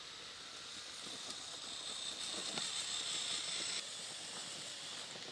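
The electric drive motors and axle-mounted gearboxes of a motor-on-axle RC rock crawler whining under throttle. The whine builds, then cuts off suddenly about two-thirds of the way through as the throttle is released.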